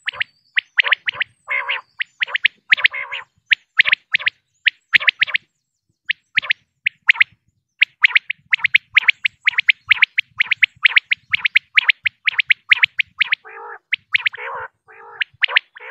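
Female common quail calling: rapid runs of short, high notes, several a second, broken by a few lower, harsher notes about a second and a half in and again near the end.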